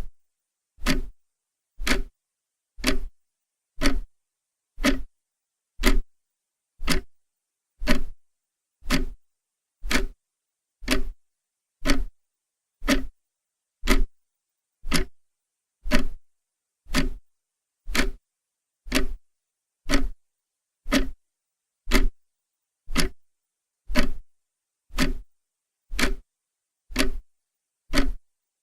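Clock ticking steadily, one sharp tick each second with silence between.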